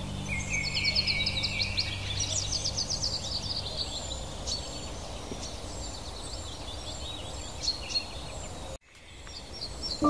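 Birds singing: a fast trill over the first few seconds, then short high chirps repeating about twice a second. Near the end the sound cuts out abruptly and fades back in.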